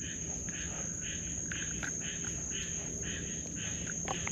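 Frogs and insects calling at the riverbank: a steady high-pitched insect trill runs underneath a frog call that repeats about twice a second.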